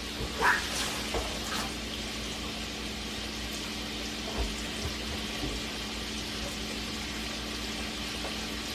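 Butter and oil sizzling steadily in a hot frying pan as chicken pieces brown, with a few light clicks and knocks.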